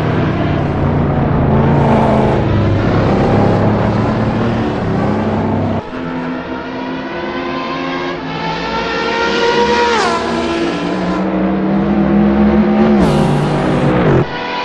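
Race car engine under hard acceleration, its pitch climbing steadily and then dropping sharply at upshifts, twice in the second half. The sound changes abruptly a little before halfway.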